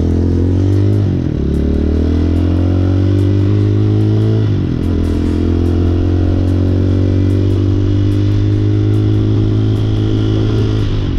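Hawk 250 motorcycle engine running under way, pulling up through the gears. Its pitch rises, drops at upshifts about a second in and again near four and a half seconds, then holds nearly steady. The owner thinks the bike is down on power and due for a new air filter.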